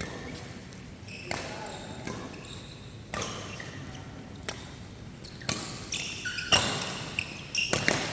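Badminton rackets striking a shuttlecock in a doubles rally, sharp hits about every one to two seconds, coming faster near the end, with short squeaks of court shoes between the hits.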